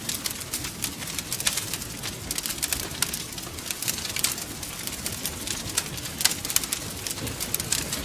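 Wood fire crackling: dense, irregular snaps and pops, several a second, over a steady low rush of burning.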